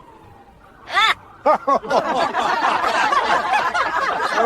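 Several people laughing together. A short laugh comes about a second in, and from about a second and a half it swells into steady group laughter.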